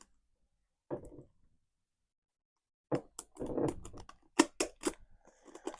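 Plastic blind-box packaging of a mini collectible being opened by hand: a single sharp click, a short rustle about a second in, then a run of quick plastic clicks and crinkles from about three seconds in.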